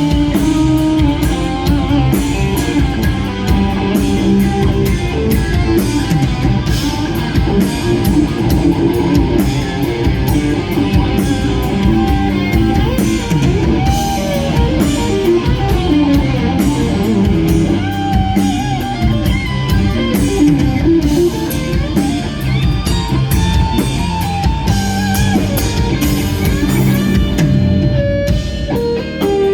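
Live rock band playing an instrumental ballad: a lead electric guitar carries a melody with sliding, bent notes over a drum kit. The cymbals and drums thin out near the end.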